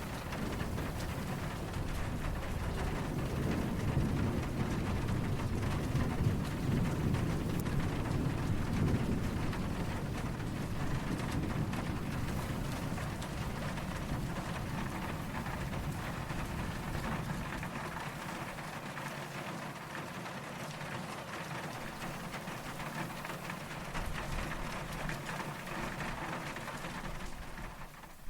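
Steady rain falling, with a low rumble of distant thunder that swells in the first few seconds and fades out by about halfway.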